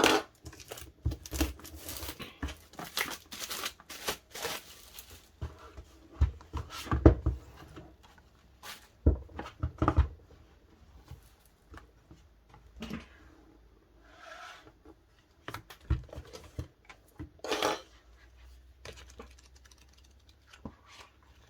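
Plastic packaging and card sleeves being handled by hand: irregular crinkling and tearing with scattered taps and clicks.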